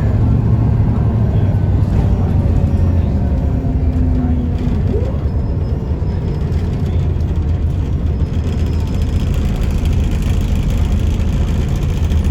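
Scania L94UB bus's DSC9 diesel engine running steadily under way, with road and driveline noise.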